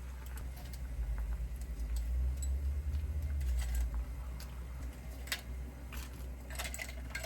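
Scattered light clicks and clinks of kitchen utensils and dishes during cooking, over a low steady hum; the sharpest clicks come about two thirds of the way in and again near the end.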